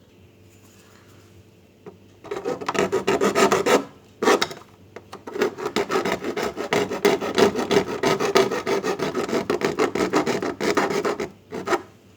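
A hand file rasping back and forth in rapid strokes, enlarging a hole so a part will fit. It starts about two seconds in, stops briefly, then runs on for about six seconds with a last short burst near the end.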